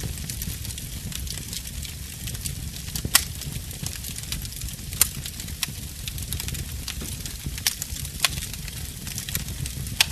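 Wood fire burning in a fireplace: continuous crackling over a low steady rumble, with several sharp, louder pops spread through it.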